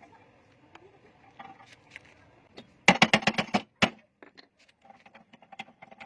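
A quick run of about ten sharp knocks lasting just under a second, amid scattered lighter clicks and taps.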